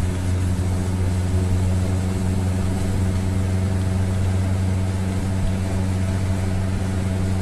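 GAZelle light truck's engine running steadily under load as the loaded truck climbs a grade, heard from inside the cab.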